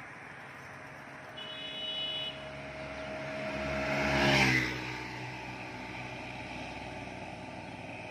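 A motor vehicle passing by. Its engine grows louder for a few seconds, is loudest about four seconds in, then fades quickly. A brief high beep comes about a second and a half in.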